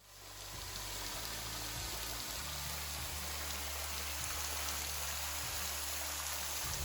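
Steady hiss of falling, splashing water that fades in at the start and holds evenly.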